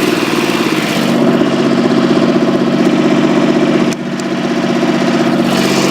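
Tractor engine running steadily, its pitch settling a little higher about a second in, with a brief drop in level near four seconds.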